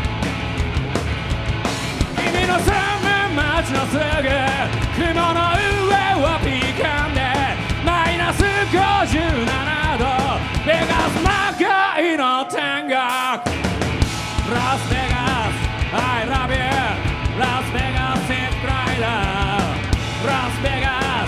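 Live rock band playing loud, driving punk-style rock with a shouted vocal. About twelve seconds in, the bass and drums drop out for a couple of seconds, leaving only the wavering voice or guitar line, before the full band crashes back in.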